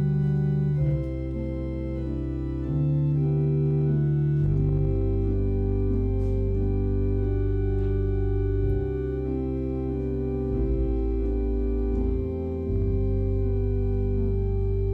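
Organ playing slow, held chords that change every second or two, with a high note sustained from about five seconds in.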